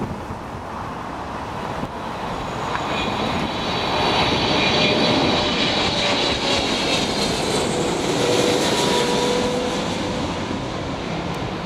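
Boeing 777-300ER on landing approach, its GE90 turbofans at approach power, passing by. The jet noise swells for a few seconds with a high fan whine, then eases off as lower tones slide down in pitch.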